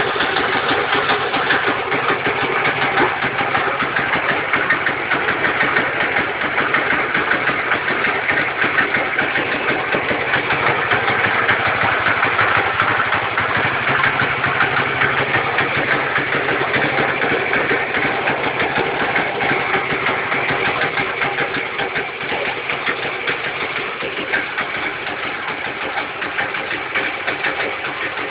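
Matchless G2's single-cylinder four-stroke motorcycle engine running at idle on its first run after about 30 years laid up, with a rapid, even exhaust beat. It settles a little quieter about two-thirds of the way through.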